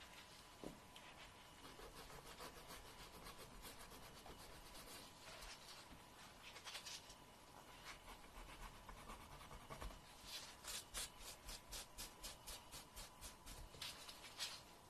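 Faint nail grinding: a fingernail worked in short scraping strokes, scattered at first, then a quick run of about four strokes a second from about ten seconds in.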